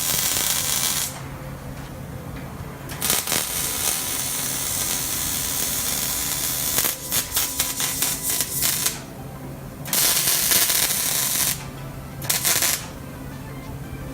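Several bursts of loud hissing noise, the longest lasting about six seconds and breaking into rapid short spurts near its end, over a steady low hum and quiet background music.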